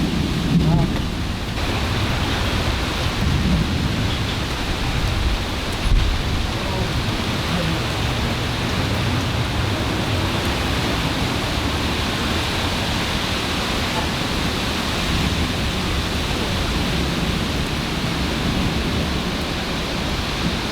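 Thunderstorm: rain falling steadily, with low rumbling thunder in the first several seconds and a short louder thump about six seconds in.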